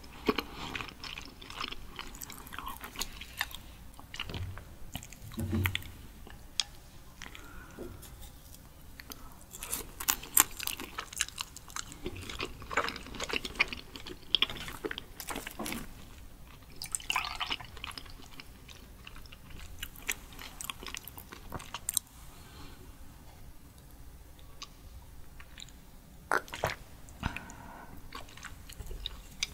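A person chewing raw sweet shrimp close to the microphone: wet smacking and sharp irregular mouth clicks.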